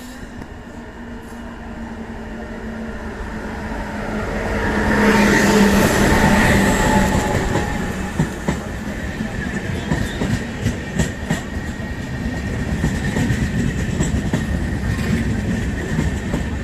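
Passenger train running on the line. Its rumble builds to its loudest about five seconds in, with a steady whine over it. From about eight seconds the wheels clack repeatedly over the rail joints.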